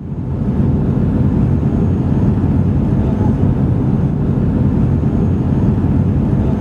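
Loud, steady low engine drone of a vehicle, cutting in abruptly.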